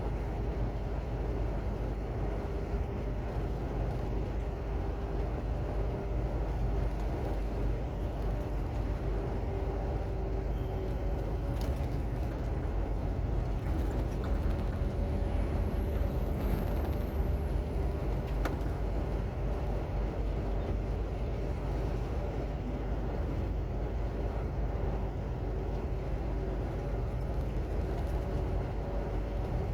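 Heavy truck's diesel engine running steadily: a low drone with faint steady engine tones and little change in level. A faint high whistle rises and falls about halfway through.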